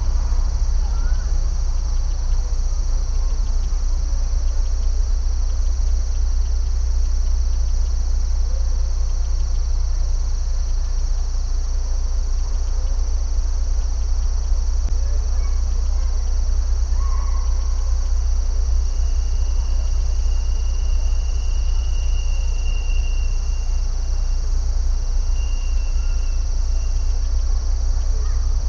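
Steady high-pitched chorus of insects trilling without a break over a constant low rumble, with scattered faint bird chirps. A thin, high, held note comes in about two-thirds of the way through and fades a few seconds later.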